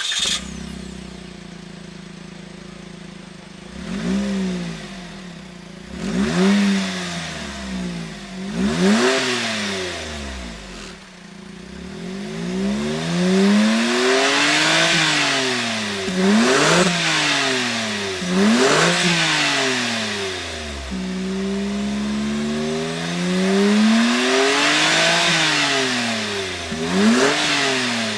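Suzuki Hustler Hybrid Turbo's three-cylinder kei engine, heard through a Kakimoto GTbox 06&S aftermarket muffler: it starts, idles for a few seconds, then is revved repeatedly. First come short blips, then longer revs that climb and fall again and again.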